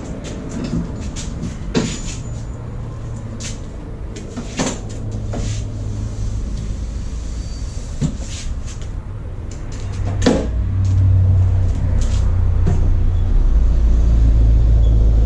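Scattered clicks and knocks of parts and tools being handled, over a steady low rumble that grows louder near the end.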